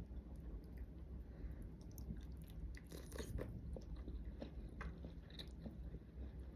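A person biting and chewing food close to the microphone, with crisp crunches and crackles, densest about three seconds in.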